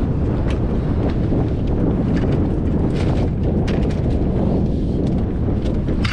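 Wind buffeting the microphone in a continuous low rumble, with scattered faint clicks above it.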